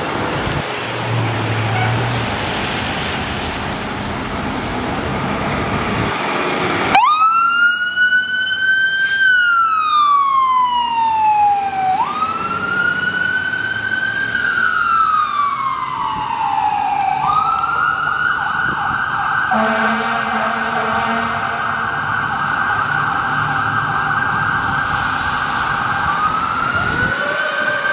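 Fire apparatus siren. After several seconds of truck and road noise it winds up and falls back in two long wails, then holds a steady high tone. Midway a short low horn blast sounds, and near the end the siren sweeps up again.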